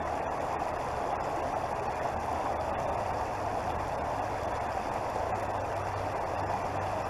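Creek water flowing steadily over its bed in an even rush, with a low steady hum underneath that grows slightly stronger near the end.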